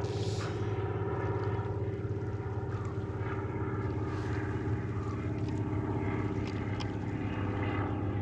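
Propeller plane engine droning steadily overhead.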